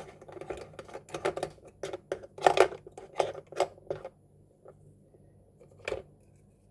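Small plastic toy kitchen pieces being handled, a quick run of clicks and taps for about four seconds, then one more click near the end.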